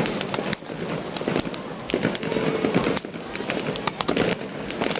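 Aerial fireworks bursting in many sharp, irregular bangs and crackles, some in quick clusters.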